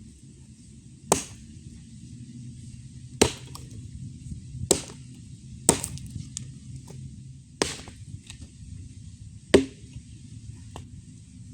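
Axe chopping wood: six sharp strikes, one every one and a half to two seconds.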